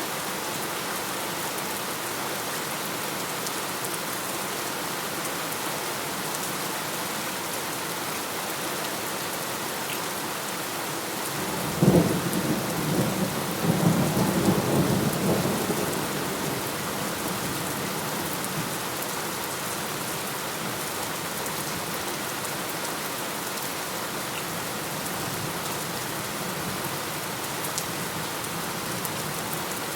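Steady heavy rain falling, with a thunderclap about twelve seconds in that cracks sharply and then rumbles for about four seconds before fading back into the rain.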